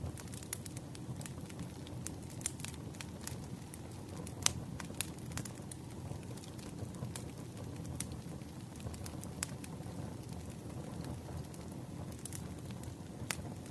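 Campfire crackling: wood snapping in irregular sharp pops over a steady low rumble of the fire, with a couple of louder pops about four and five seconds in.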